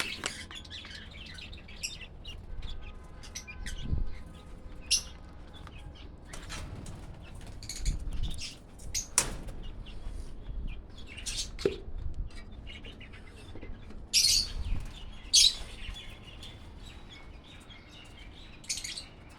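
Small pet parrots chirping in short, scattered bursts, with a few soft low thumps in between.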